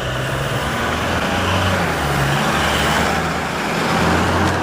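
Exhaust of a Toyota Hilux GUN125's 2.4-litre four-cylinder turbodiesel through a Ganador aftermarket sports muffler, running steadily at low speed with a deep drone that wavers slightly in pitch.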